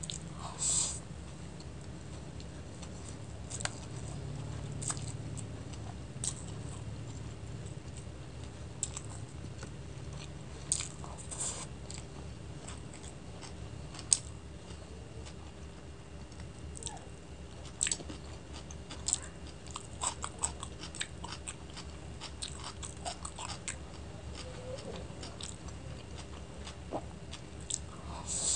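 Close-miked chewing and biting of forkfuls of chicken chow mein noodles, with irregular sharp mouth smacks and clicks.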